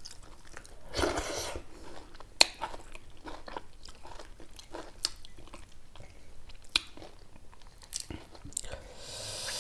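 Close-up chewing and mouth sounds of people eating chicken and dhido by hand, with wet smacks and scattered sharp clicks; a short rush of breath-like noise about a second in and again near the end.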